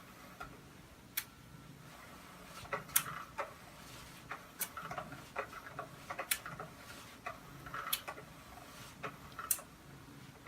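Faint, irregular clicks and light taps, with a sharper click about every one and a half to two seconds.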